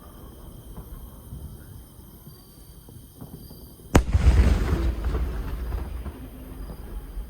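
A single aerial firework shell bursting with a sharp bang about four seconds in, its low boom dying away over about two seconds.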